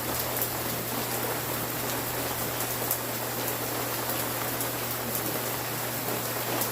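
Steady rain falling, an even hiss with scattered drop ticks, over a faint low steady hum.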